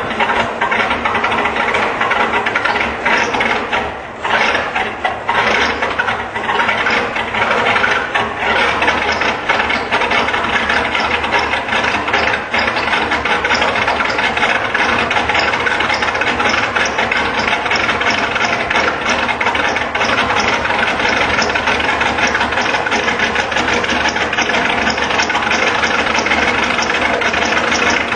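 Diesel engine running with a rapid, loud clatter, its level dipping unevenly a few times in the first several seconds and then settling into a steady run, typical of a diesel just after a cold start.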